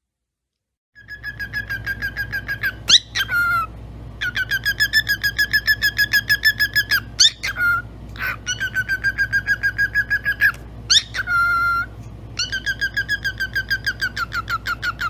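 A pet bird calling in long runs of identical quick chirps, about seven a second at one steady pitch, broken several times by short, sharper swooping calls. A steady low hum sits underneath.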